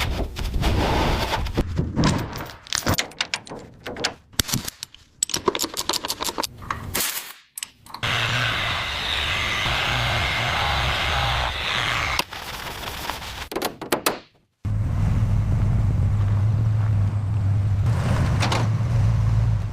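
A rapid run of sharp mechanical knocks and clatters for the first several seconds, then a steady hiss for a few seconds, then a steady low mechanical hum starting about fifteen seconds in.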